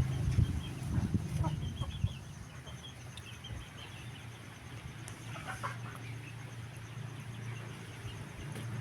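Chickens clucking in short calls, with a low rumble over the first couple of seconds.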